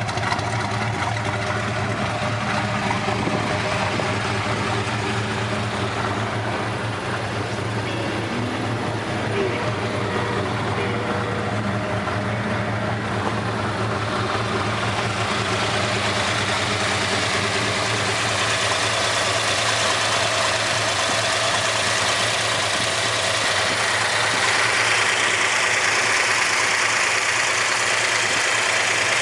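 Dodge Super Bee's V8 idling steadily, getting a little louder and brighter in the last few seconds as it is heard from close to the engine bay.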